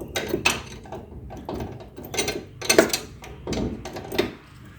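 Hand ratchet wrench clicking in short, irregular runs as a nut or bolt on the truck's front suspension is turned down.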